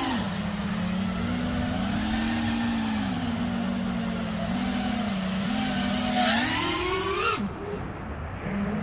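Motors of a 5-inch FPV freestyle quadcopter whining, the pitch wavering with throttle. About six seconds in, the throttle is punched and the whine climbs steeply, then drops off sharply about a second later.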